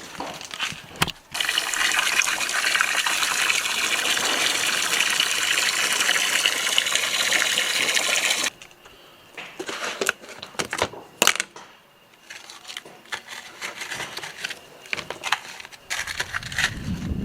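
A steady rush like running or spraying water for about seven seconds that stops abruptly, followed by scattered clicks and knocks.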